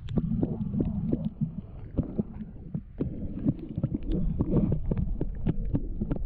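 Low muffled rumbling with many small irregular clicks and knocks: handling noise close to the camera microphone.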